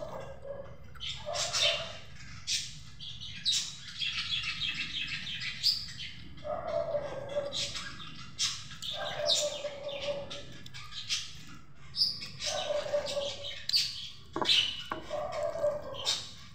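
Birds chirping in short repeated bursts, with a quick run of chirps about four seconds in, and lower, slightly falling calls coming back every few seconds.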